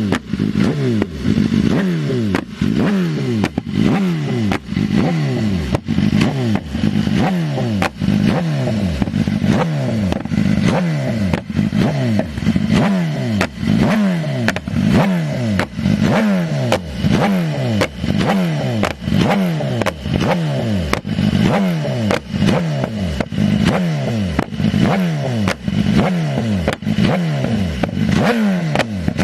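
BMW S1000RR's inline-four engine with an Arrow exhaust, blipped again and again at about one rev a second, each rev falling away with sharp pops and crackles from the exhaust: backfiring on the overrun.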